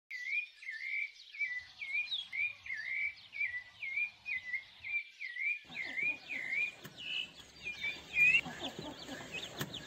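A bird repeats a short chirping call about twice a second, each call dipping and then rising in pitch. In the second half a busier outdoor background fades in under it.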